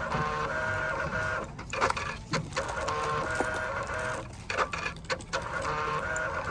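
Receipt printer at a shop till running in spells of a second or two, a buzzing whine that stops and restarts, mixed with clicks and knocks from the counter.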